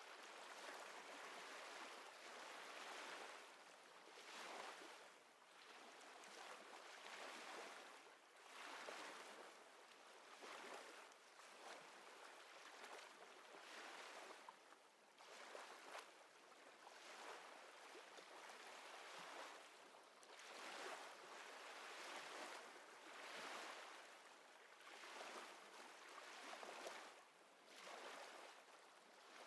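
Faint water lapping in small waves, swelling and fading every second or two.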